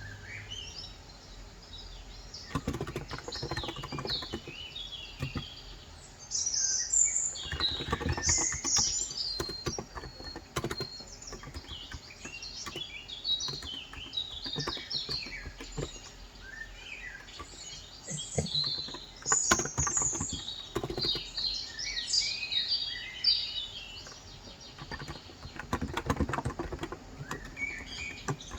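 Small birds chirping and twittering almost continuously, over bursts of rapid key clicks typed on a COX Endeavor 35g contactless (electro-capacitive) tenkeyless keyboard.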